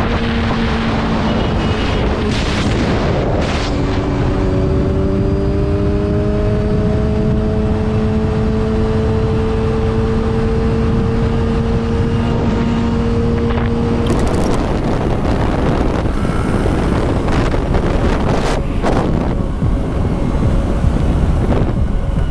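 Motorcycle engine running at a steady cruise under heavy wind rush on the microphone. The engine note climbs slowly for about ten seconds, then sinks into the wind noise near the middle.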